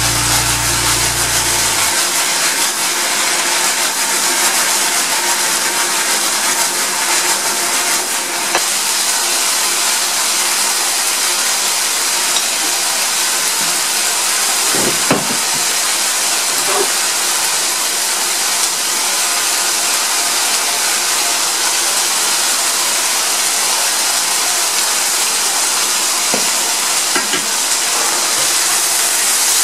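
Shredded pork and green pepper stir-fry sizzling steadily in a nonstick pan, with a faint knock about halfway through.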